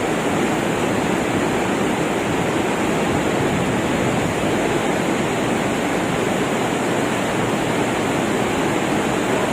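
A river swollen after heavy rain, its floodwater rushing in a steady, unbroken roar.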